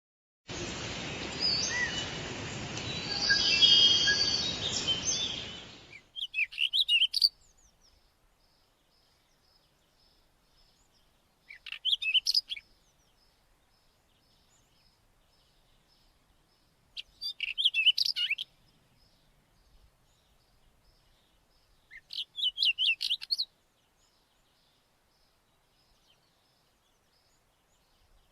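White-tailed wheatear singing: short song phrases, each about a second and a half long, repeated four times roughly every five seconds. Before them comes about six seconds of louder noise.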